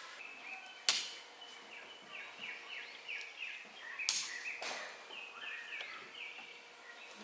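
Birds singing: quick runs of short, high, downward-sliding notes repeated throughout. Two sharp knocks cut through, one about a second in and a longer one about four seconds in.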